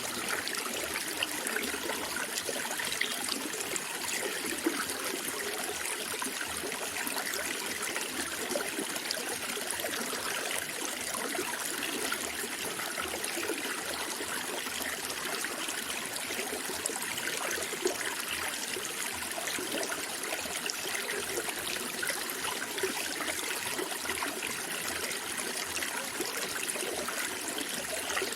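Running water flowing and trickling steadily, with scattered small splashes.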